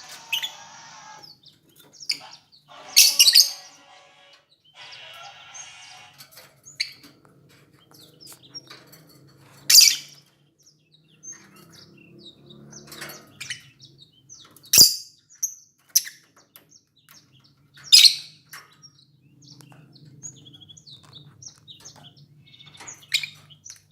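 Lovebirds calling: a short, loud, shrill call every few seconds, with quieter chirps between.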